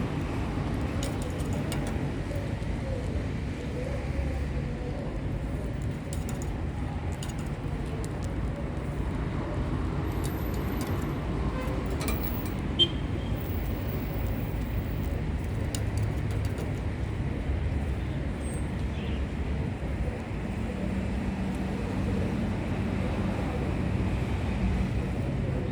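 Steady low rumbling background noise, with a few faint short clicks and one sharp click about 13 seconds in.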